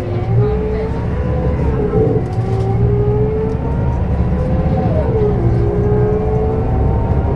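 Scania K270UB city bus under way: its Scania DC9 engine and ZF Ecomat automatic gearbox whine, climbing in pitch as it accelerates. About five seconds in the pitch drops as the gearbox shifts up, then it climbs again.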